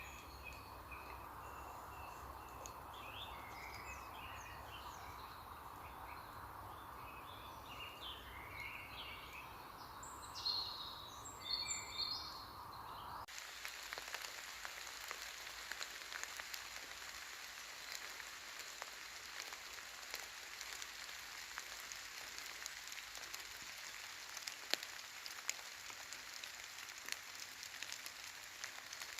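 Woodland birds chirping and singing over a faint steady background, then an abrupt cut, about 13 seconds in, to steady rain falling, with many small drops ticking.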